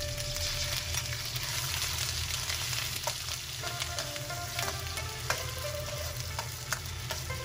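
Food sizzling as it fries in a hot pan and is stirred, with a few sharp clicks of a utensil against the pan.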